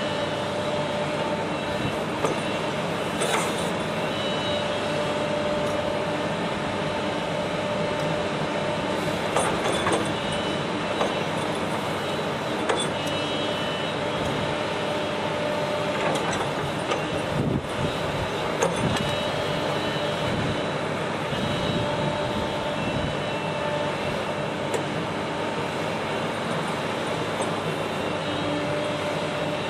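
Heavy machinery running steadily, with a few faint steady tones in its noise and scattered short knocks and clanks.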